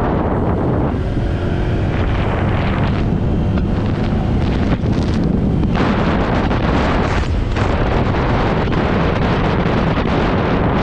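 Strong wind buffeting the microphone of a moving scooter: a loud, rough, steady rumble that drowns out most other sound.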